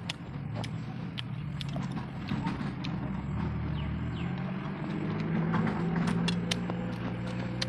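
Close-up chewing and lip smacking of a mouthful of rice, with irregular sharp wet mouth clicks, over a low steady hum.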